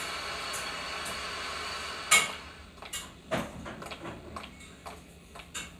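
Steady hiss and hum of a train, cut off about two seconds in by one loud clunk. A run of light, irregular knocks and clicks follows.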